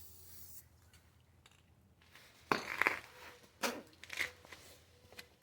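Aerosol can of clear acrylic enamel spraying with a steady hiss that stops about half a second in. Then, about two and a half seconds in, three or four sharp clanks come, each with a short ring; these are the loudest sounds.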